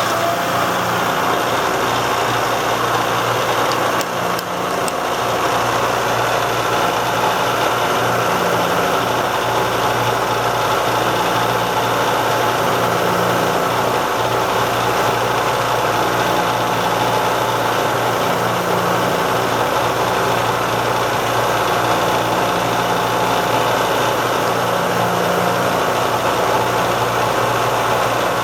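Bridgeport J-head vertical mill running steadily: the 2 HP three-phase motor and variable-speed spindle drive hum and whine, with the quill power feed engaged. The low hum swells and fades slowly and unevenly.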